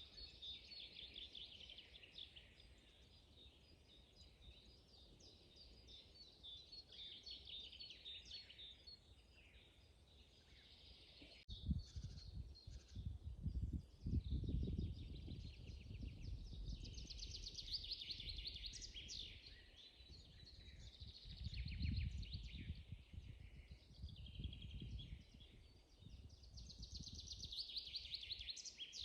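Several songbirds singing in a spring forest, overlapping chirps and rapid trills. A sharp click comes a little before halfway, and after it a low rumble swells and fades under the birdsong.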